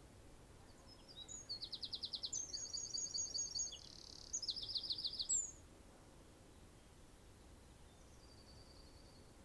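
A songbird singing a fast, chattering song of rapid high trills from about one second in until about five and a half seconds, then a faint short trill near the end.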